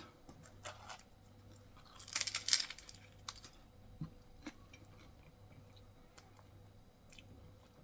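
A person biting into and chewing a chicken wrap filled with fresh vegetables. A short burst of crunching comes about two seconds in, followed by faint scattered chewing clicks.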